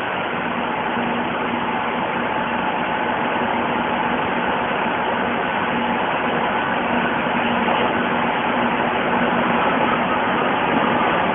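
Madrid Metro train running: a steady rumble and hiss with a faint hum, slowly growing louder.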